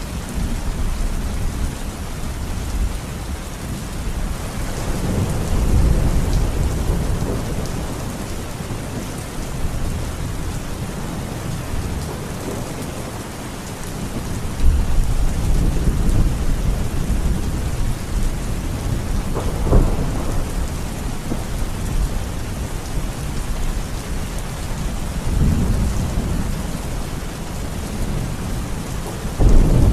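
Steady heavy rain hissing on a surface, with thunder rolling low several times. There is a sharper crack about two-thirds of the way in and a loud rumble breaking right at the end.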